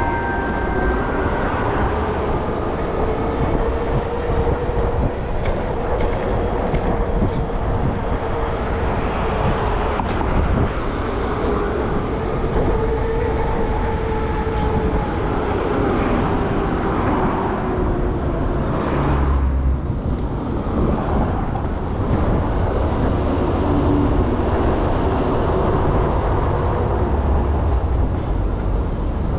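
Steady ride noise from an e-bike under way: rumbling wind and road noise, with a faint whine that drifts slightly up and down in pitch.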